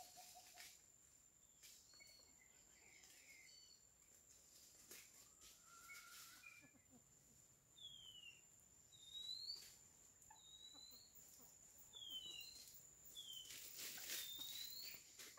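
Faint rural ambience: a small bird's short whistled notes, some sliding up and some sliding down, about one a second through the second half, over a steady high-pitched insect trill. A few soft rustles near the end.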